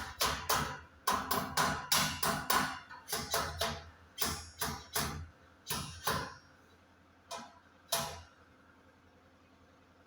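A hammer striking metal over and over, about three ringing blows a second, slowing and stopping about eight seconds in.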